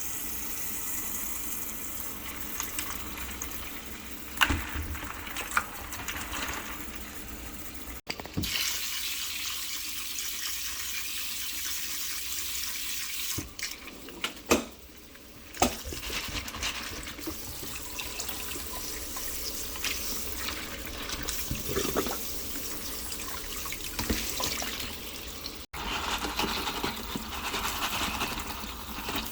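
Tap water running steadily into a sink over beans in a strainer as they are rinsed, with a few sharp knocks along the way.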